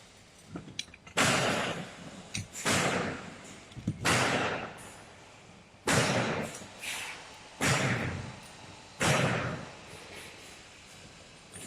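A series of six loud, sudden knocks, each with a short noisy tail, about every one and a half seconds, from aluminium end-of-arm-tool parts being handled and fitted together.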